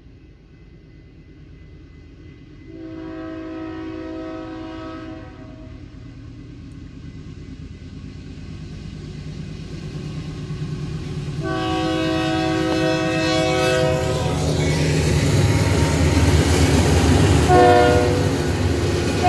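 Horn of the lead Union Pacific diesel locomotive on an approaching double-stack intermodal train, sounding two long blasts and then a short one near the end. Underneath, the rumble of the diesel engines grows steadily louder as the locomotives draw near and pass close by.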